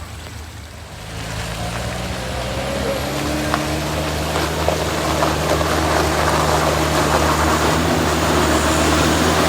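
Heavy truck engine running with a steady low drone. It grows steadily louder from about a second in as rough noise builds over it.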